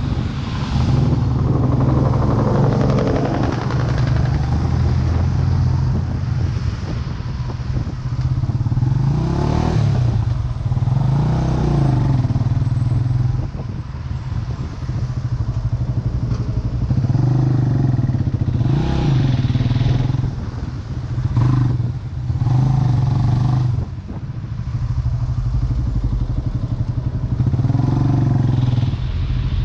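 Vento Lucky 7 motorcycle engine running while being ridden. The revs rise and fall several times, with brief drops in level between them.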